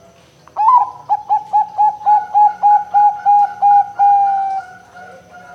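Zebra dove (perkutut) cooing: a rising opening note, then a quick even run of about a dozen short coos at about four a second, ending in a longer held note that falls slightly and fades.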